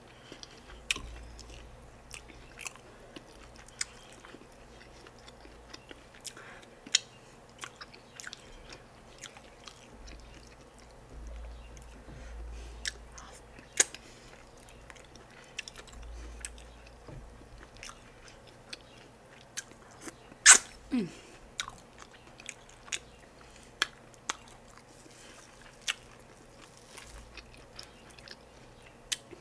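Close-up eating sounds of a person chewing okra soup and fish: irregular wet mouth clicks and smacks, one much sharper than the rest about twenty seconds in.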